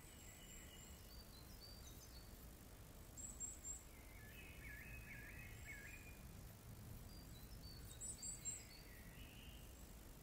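Faint high bird calls: scattered short chirps and thin whistles, a little louder around a third of the way in and again near the end, over a low steady background hum.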